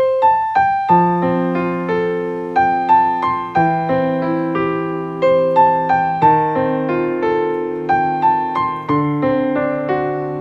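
Background music of solo piano or electric piano: a gentle melody of single notes over held bass notes, each note struck and slowly fading.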